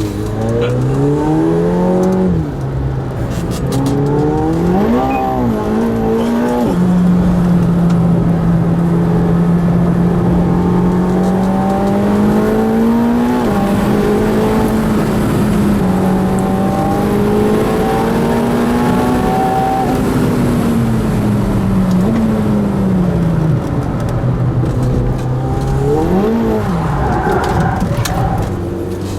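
McLaren 720S twin-turbo V8 driven hard on track: the engine revs up and drops back several times in the first few seconds, holds a high steady note for a long stretch, then falls away and picks up again near the end.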